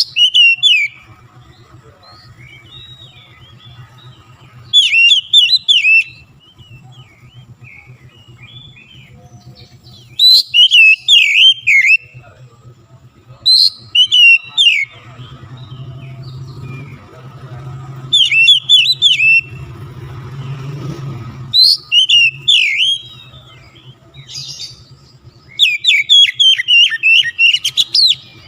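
Oriental magpie-robin (kacer) singing in loud bursts of rapid, sweeping whistled notes, a short phrase every three to five seconds, over a low steady hum.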